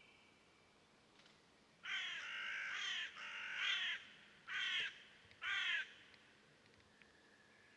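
A bird giving four harsh, cawing calls, the first two longer and back to back, the last two shorter and spaced about a second apart.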